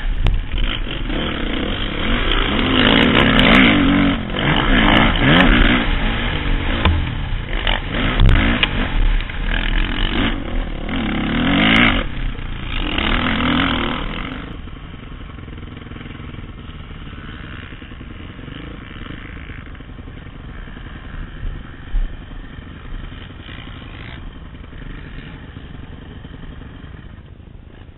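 Motocross bike engine revving hard, its pitch rising and falling again and again with the throttle, heard from a helmet-mounted camera. About 14 seconds in it drops to a much quieter, steadier sound that fades near the end.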